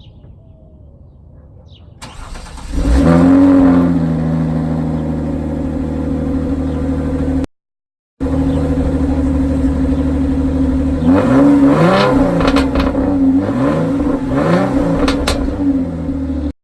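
Hyundai Genesis Coupe engine starting through its exhaust, flaring briefly in revs before settling into a steady idle. After a short cut-out, it idles again and is blipped up and down several times in the second half.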